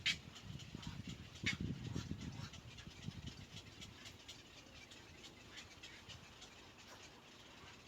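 Animal sounds: two short, sharp high-pitched squeaks about a second and a half apart, over low rustling that fades toward the end.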